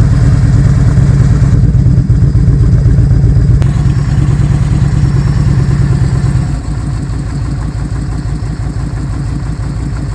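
Kawasaki Vulcan 2000's V-twin engine idling with an even, pulsing beat, just after being started. About six and a half seconds in it drops a little quieter and settles.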